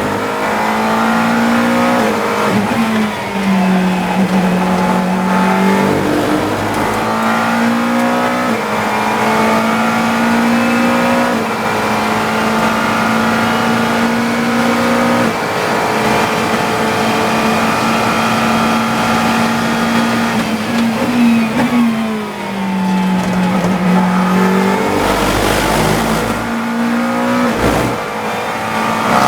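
GT3 race car engine heard from the cockpit at racing speed, its pitch climbing through a string of upshifts, then dropping sharply under braking and downshifts about 3 s in and again a little past 20 s in. A few sharp knocks come near the end.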